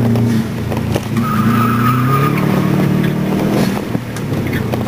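Saab 9-2X's Subaru flat-four engine revving up and down under hard driving, heard from inside the cabin, with a steady high tyre squeal for about a second, starting about a second in.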